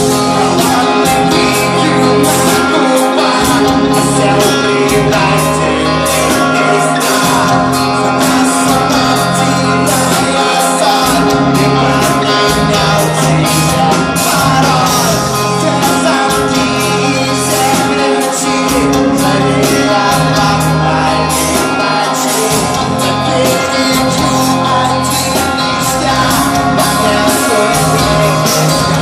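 Metal band playing live: loud rock music with sung and shouted vocals over guitars and steadily hit drums.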